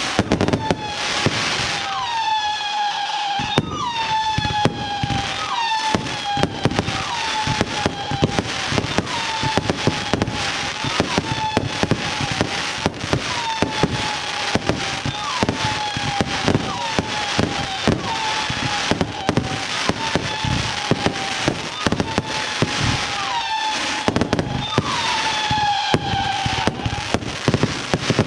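Consumer firework batteries firing in quick succession: dense crackling and bangs with a repeated whistle about once a second, each whistle sliding down in pitch.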